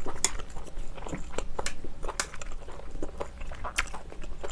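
Close-miked eating sounds of steamed scallop being chewed: wet mouth sounds with scattered sharp clicks and crackles.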